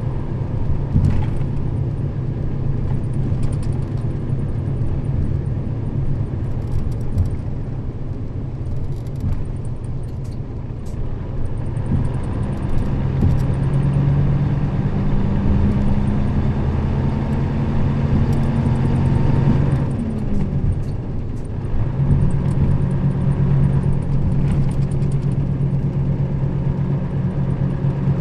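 Nissan Diesel KL-RA552RBN route bus running under way, with a steady low engine hum and road noise. The engine note climbs a little, drops away about twenty seconds in, then picks up again two seconds later, as at a gear change.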